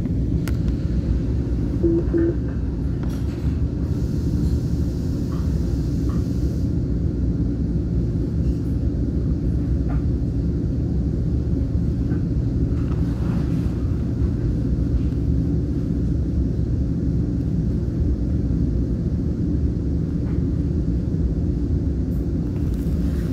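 Steady low rumble heard inside a commuter train coach as it slows into a station and stands at the platform, with a short pair of tones about two seconds in and a brief hiss a few seconds later.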